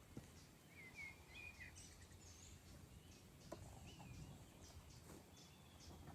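Faint birdsong over near-silent outdoor ambience: a short warbling phrase about a second in and another near four seconds, with scattered high chirps throughout.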